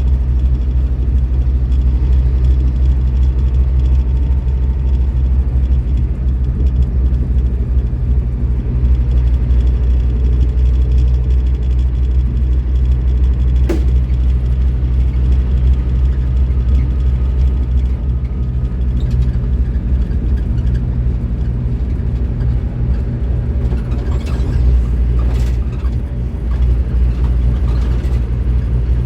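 Scania K310IB bus's diesel engine running steadily, a deep low drone, with a single sharp click about fourteen seconds in.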